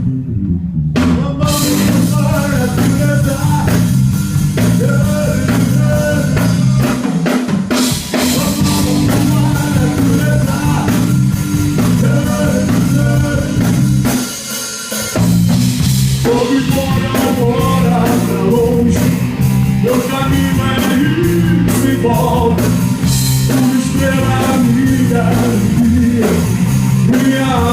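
Live rock band playing an instrumental passage: drum kit, electric bass and guitar, with melodic lead lines over a steady beat. The band drops out briefly about halfway through, then comes back in.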